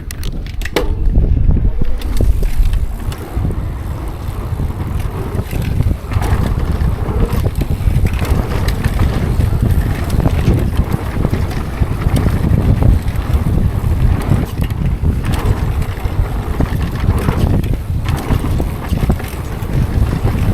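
Wind buffeting the microphone of a riding mountain bike, with the low rumble of tyres rolling over a dirt trail and frequent clicks and rattles from the bike.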